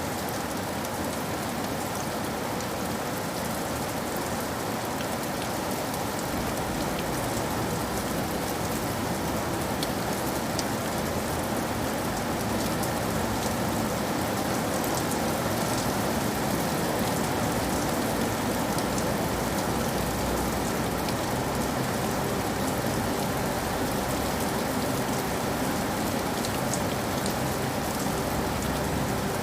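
Steady rain falling on surfaces, a dense even patter with scattered individual drop clicks.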